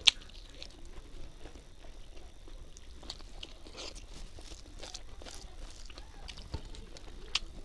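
Close-up chewing and crunching of food, with many small scattered clicks as fingers scoop and mix rice on a steel plate. A sharp click comes right at the start and another near the end.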